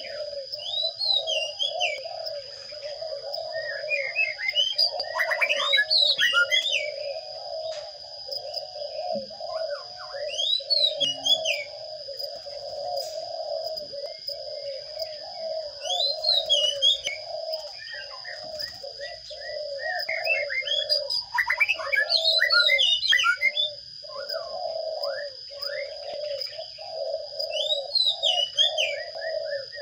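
Birds calling outdoors: a continuous fast warbling call runs throughout, and a short song phrase sweeping up and down repeats every five or six seconds. A steady thin high whine sits underneath.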